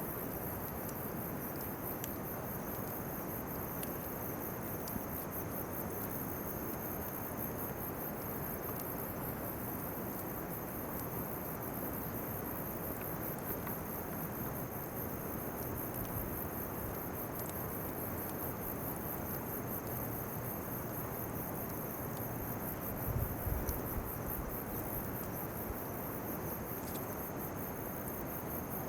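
Insects chirping steadily outdoors: a rapid, high-pitched pulsing trill together with a steady high whine, over a constant hiss. A few faint clicks come through, and there is a short low bump about 23 seconds in.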